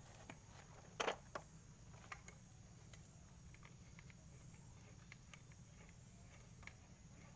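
Near silence with scattered faint clicks and taps, a slightly louder pair of knocks about a second in.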